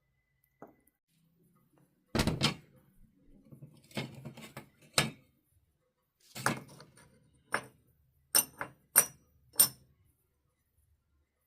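Metal pieces being handled: a series of separate knocks and clanks, ending in three quick ringing metallic taps near the end.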